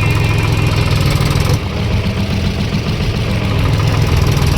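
Tractor engine running steadily with a deep, even hum. Its note shifts slightly about a second and a half in.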